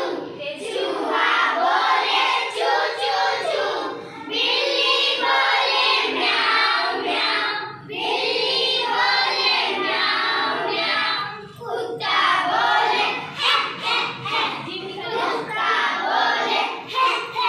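A class of young children calling out together in unison, imitating animal sounds in long sung-out phrases. The phrases break about four, eight and twelve seconds in, and after the last break the calls come shorter and choppier.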